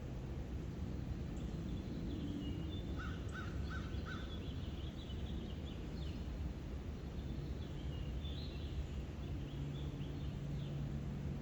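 Birds chirping and calling in short high notes, with a run of four quick lower calls about three seconds in, over a steady low background rumble.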